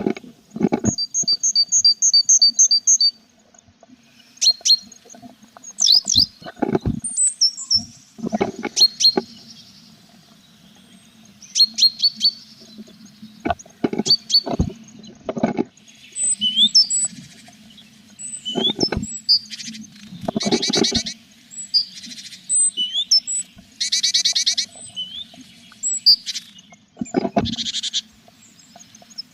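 Tit nestlings in a nest box begging in runs of rapid, high chirps that swell into dense bursts about two-thirds of the way through. Repeated knocks and scuffles come from birds moving against the wooden box, over a low steady hum.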